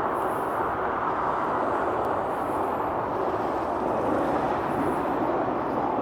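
Jet airliner engine noise: a steady rush that holds level throughout.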